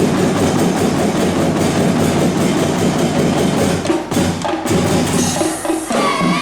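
A drum band's percussion playing a fast, driving rhythm of drum and wood-block strokes, with a short break about four seconds in; near the end pitched notes join the beat.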